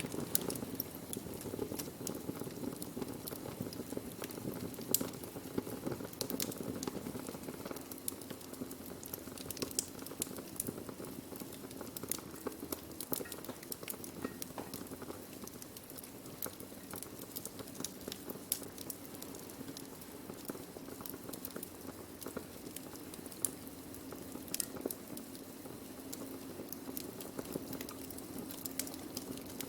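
Wood fire burning steadily, with a low constant hiss and frequent irregular sharp crackles and pops.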